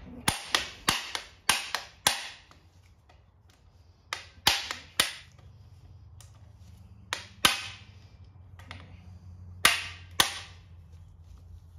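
Sharp metal-on-metal knocks from hand tools working the fasteners on a Holden grey six engine's bottom end, in short groups: about seven quick knocks in the first two seconds, then three or four, then two pairs spaced a few seconds apart.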